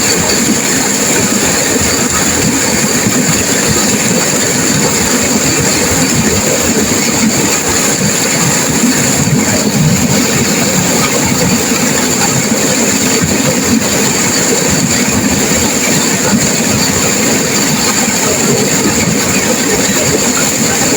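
Turbulent river water rushing and crashing, a loud, steady roar with no pauses, with a steady high hiss over it.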